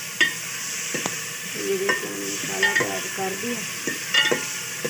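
Masala frying in ghee in a metal pot, sizzling steadily, while a metal ladle stirs it and knocks against the pot a few times.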